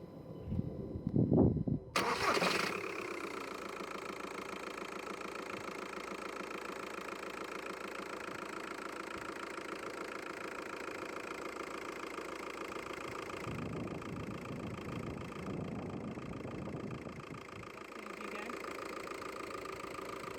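VW Golf Mk5 2.0 TDI four-cylinder diesel engine cranking briefly and catching about two seconds in, then settling into a steady idle; it is the first start after a new alternator was fitted.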